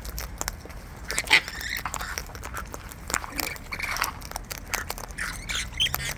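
Wild birds' beaks pecking and crunching at seed: a quick, irregular run of small clicks and crackles.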